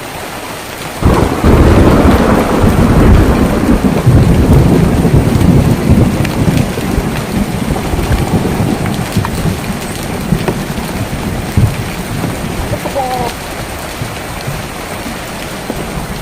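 Steady rain falling on a tin roof, with thunder breaking about a second in, a loud low rumble that fades away over the next several seconds.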